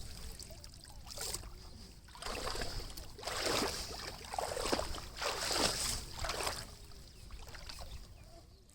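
Water splashing and sloshing in about four swells, starting about two seconds in.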